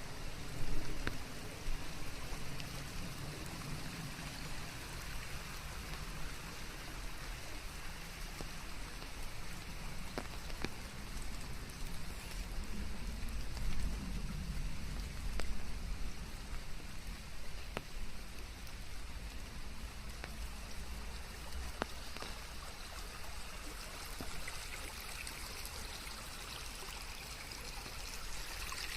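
Steady rain in a forest, an even hiss with scattered drops ticking, over a low rumble. It is mixed with white noise.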